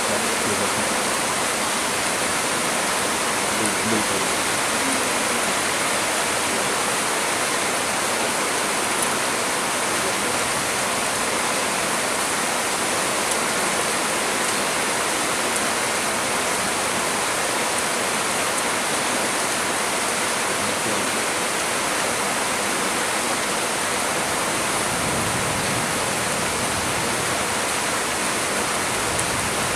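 Heavy rain pouring steadily, a dense even hiss of rain with wind in trees.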